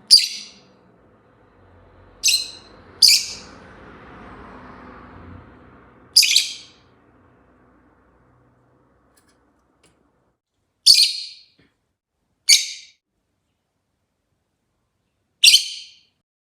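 Rosy-faced lovebird giving seven short, sharp chirps, spaced irregularly from under a second to several seconds apart.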